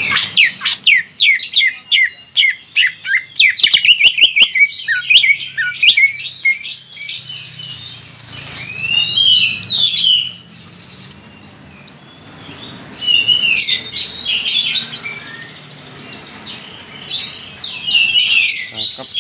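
Greater green leafbird (cucak hijau) singing loudly: a fast, busy run of chirps and sweeping whistled notes, broken by a couple of short pauses, with a few sharp clicks about four seconds in.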